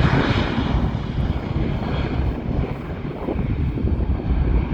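Jet airliner's turbofan engines spooled up to takeoff power, a steady low rumble with a broad rushing hiss as the Jeju Air Boeing 737 begins its takeoff.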